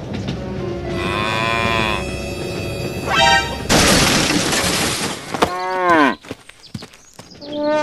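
A string of edited-in sound effects: a pitched call whose pitch swells up and falls, a loud crashing burst of noise for about a second and a half, then a tone gliding steeply down.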